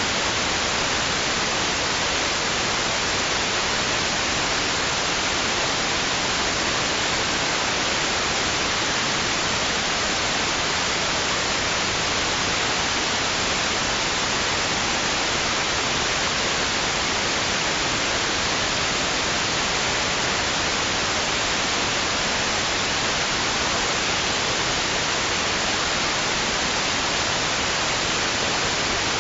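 Steady white noise: an even, unbroken hiss, strongest in the upper range, with no swells or changes.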